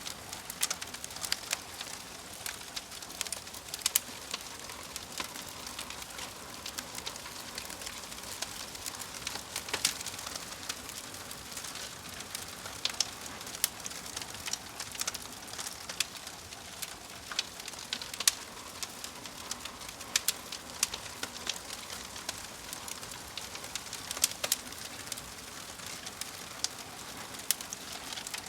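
Wood fire crackling, with frequent sharp, irregular pops and snaps over a soft steady hiss.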